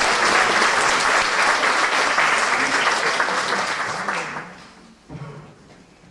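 Concert audience applauding, the clapping dying away about four seconds in; one brief low sound follows a second later.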